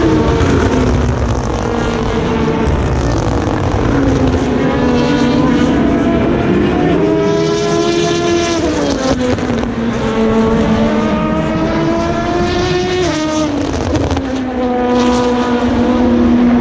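Race cars passing one after another, several engines heard at once, accelerating hard: their notes climb in pitch and drop sharply at upshifts, about nine and thirteen seconds in.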